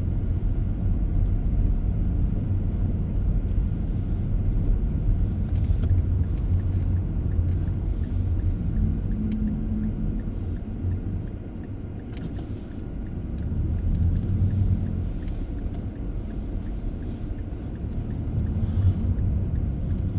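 Car on the move: a steady low rumble of engine and road noise, easing off a little about twelve seconds in and building again soon after.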